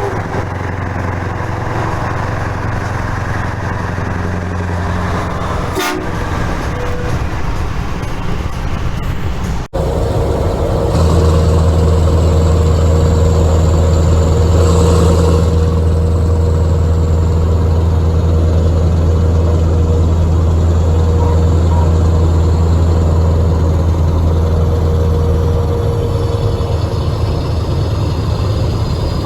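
Scania V8 truck engine with open exhaust pipes, running at a steady pitch with a deep drone. The sound breaks off sharply about a third of the way through, then comes back louder and holds steady.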